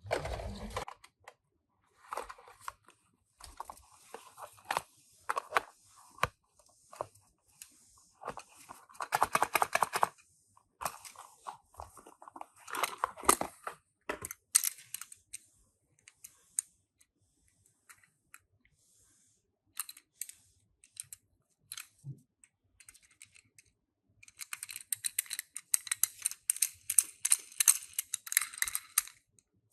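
Handling of toy packaging: scattered clicks and taps with short bursts of rustling, and a longer stretch of dense crinkling near the end, typical of cardboard boxes and plastic wrapping being opened and small die-cast cars being handled.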